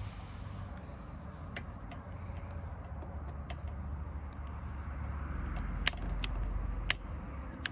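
Wood campfire crackling: irregular sharp pops and snaps over a low steady rumble, with the two loudest pops near the end.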